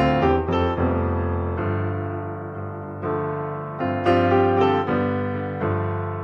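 Background piano music: notes struck and left to ring, with new chords entering about every second or so.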